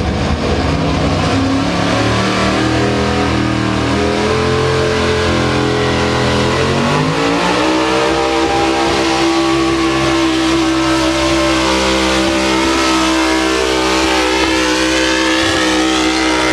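Pulling truck's engine running hard under load. Its pitch climbs in steps for about seven seconds, then rises once more and holds high and steady.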